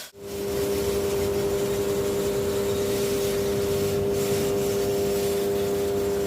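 A motor-driven machine running steadily with a constant hum, starting just after a sudden break in the sound.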